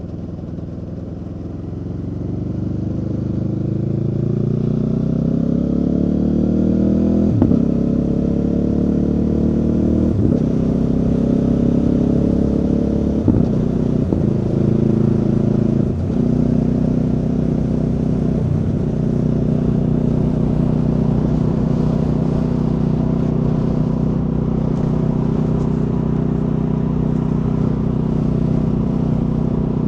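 Aprilia Tuono V4 motorcycle's V4 engine accelerating, its pitch rising through the gears with five quick upshifts, each a sudden drop in pitch, then running at a steady cruise for the second half.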